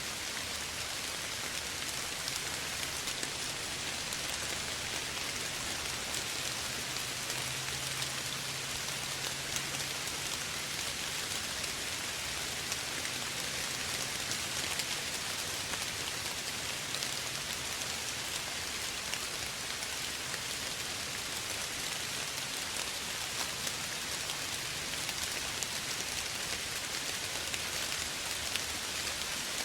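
Steady soft rain falling, a dense even patter of many small drops with no thunder.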